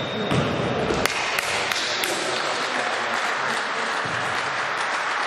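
Spectators applauding at a basketball game, with a few sharp knocks about a second in; the clapping stops near the end.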